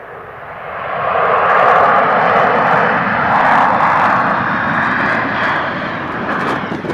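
Jet engines of a Fuji Dream Airlines Embraer regional airliner running close by. The sound swells about a second in, stays loud, then eases a little near the end.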